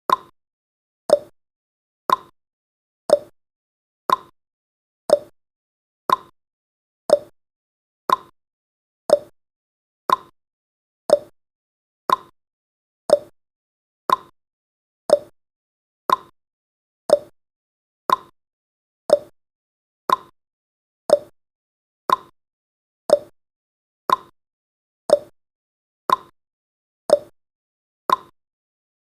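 Countdown timer's ticking sound effect: one short, sharp tick every second, perfectly even.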